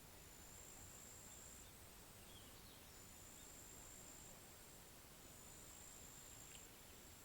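Faint pond ambience: a high-pitched insect trill in long phrases with short breaks, a few faint bird chirps, and a low background hiss.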